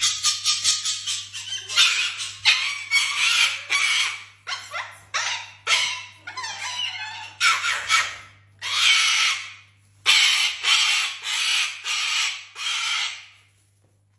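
A pet animal calling again and again in short, harsh, unpitched bursts, about a dozen in quick irregular succession, stopping about a second before the end.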